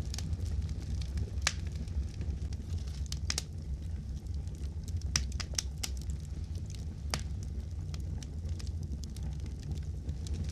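Wood fire in a fireplace crackling: scattered sharp pops and snaps, about one every second or so, over a steady low rumble of burning.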